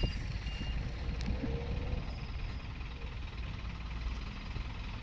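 Steady low rumble of an idling vehicle engine, with two short high notes near the start.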